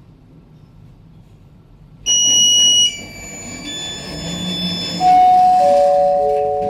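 LiftShop passenger lift's arrival signals: about two seconds in, a loud high electronic beep lasting under a second, then fainter tones, then from about five seconds in a loud three-note chime falling in pitch. It signals that the car has reached its floor, here the ground floor.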